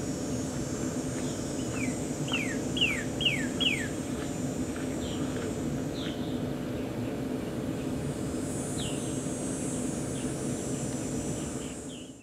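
Small birds chirping: a quick run of four short, downward-sliding chirps about two to three and a half seconds in, then scattered single chirps, over a steady low background hum. The sound fades out at the very end.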